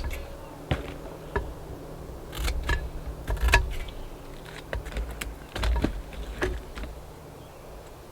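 Hands at work repotting plants: a scattered series of sharp clicks and taps, with duller handling bumps about two and a half and five and a half seconds in.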